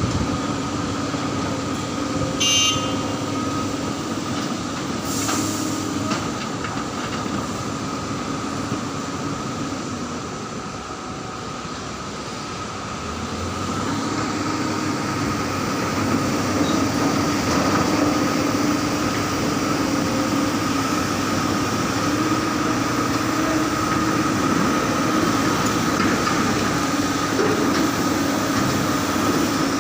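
Heavy mining dump truck running steadily: a loud engine drone with a constant whine over it. It eases off about ten seconds in and builds again from about fourteen seconds.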